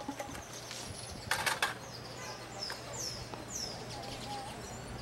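Open-air background with a bird calling a run of about five short, high, falling chirps a little past halfway, a brief rustling burst about a second and a half in, and a low steady hum underneath.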